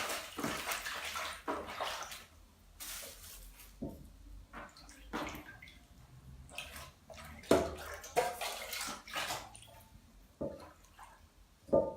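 Vegetables being washed by hand in water: irregular splashing and sloshing, with short pauses.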